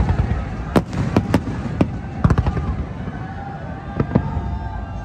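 Aerial fireworks bursting over a low rolling rumble: a quick run of sharp bangs in the first half, then two more about four seconds in.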